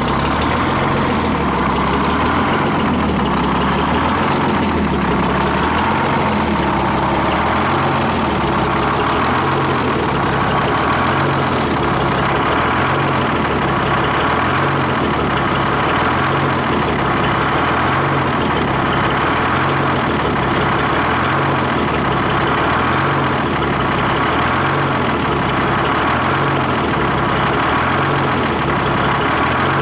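Detroit Diesel 6-71 two-stroke inline-six idling steadily, with a slow, even pulse about once a second. It is warming up after a cold start made without ether.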